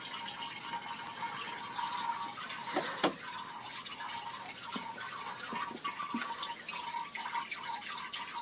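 Running water: a steady splashing hiss, with a few small knocks, the sharpest about three seconds in.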